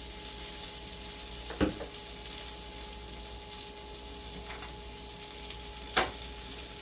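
Split mild Italian sausage sizzling steadily in a frying pan on medium-low heat, with a light knock about a second and a half in and another near the end.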